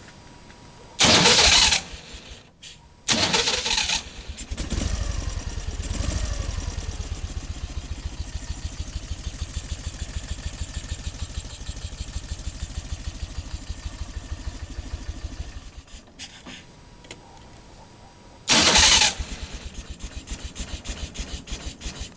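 Ural motorcycle's air-cooled flat-twin engine being started on its electric starter. Two short loud bursts of cranking come first, then the engine catches, is revved a little and runs with an even pulsing beat before it cuts out. Near the end the starter cranks again and the engine fires and runs once more.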